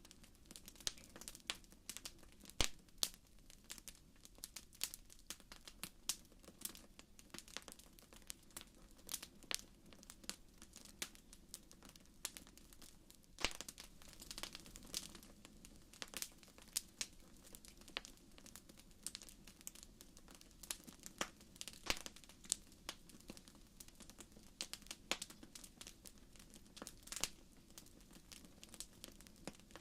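Wood fire crackling in a fireplace: irregular sharp pops and snaps, several a second, over a faint steady low rush from the burning.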